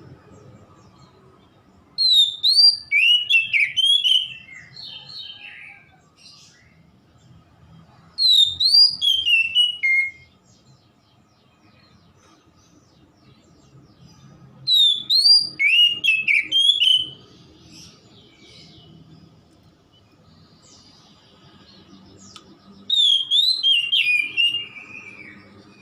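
Oriental magpie-robin (kacer) singing in four separate phrases several seconds apart. Each phrase is about two seconds of loud, quick whistled notes that rise and fall, with some very high notes.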